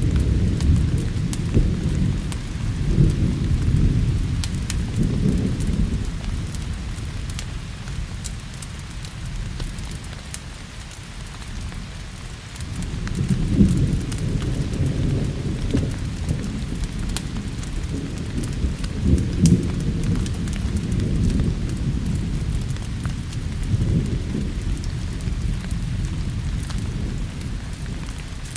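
Rolling thunder coming in repeated low swells over steady rain, with scattered small crackles of a wood fire.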